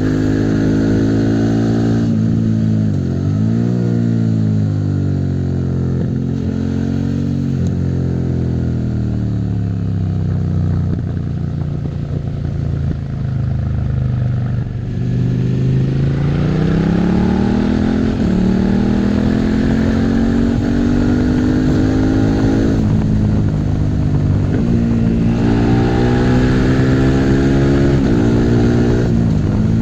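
Suzuki SV650's V-twin engine on the move, its note falling away for several seconds, then rising as it pulls again, with quick drops at gear changes in the second half. A steady hiss of wind and road noise runs underneath.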